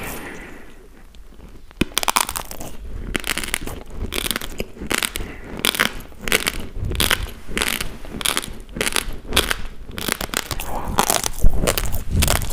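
Close-miked chewing of a mouthful of raw basmati rice: dry, rapid crunching as the hard grains are bitten and ground between the teeth, starting about two seconds in after a quieter moment.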